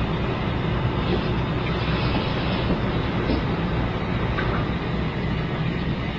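Toilet water rushing steadily as the bowl flushes and the tank refills.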